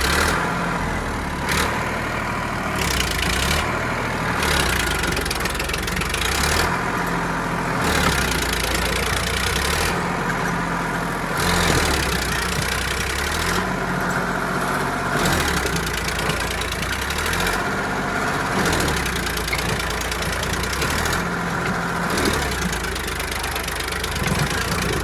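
Sonalika 745 DI tractor's diesel engine working hard under load, pulling a trolley stuck in mud. Its speed rises and falls every couple of seconds as it strains.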